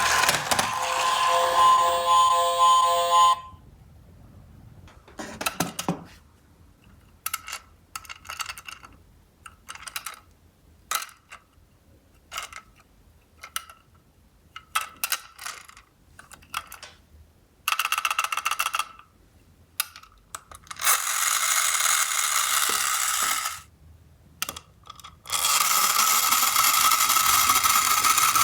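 Toy minicars clicking and knocking as they are handled and set on a cardboard ramp, then longer rushing runs of small wheels rolling down the cardboard slope. It opens with a steady electronic beep-tone from a toy's sound unit that cuts off about three seconds in.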